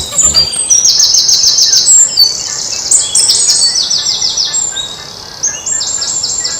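Birdsong: loud, rapid high trills, each a quick run of short notes, repeated one after another.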